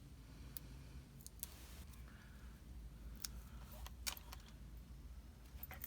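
Faint scattered taps and light rustles of small paper flower buds being handled and pressed onto a card, over a low steady hum.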